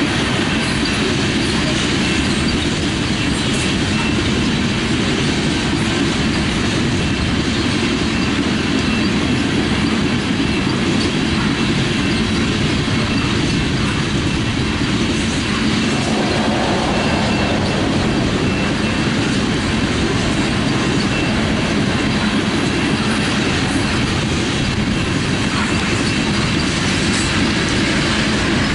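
Loaded coal train's hopper cars rolling past, a steady rumble of steel wheels on rail with a faint high wheel squeal.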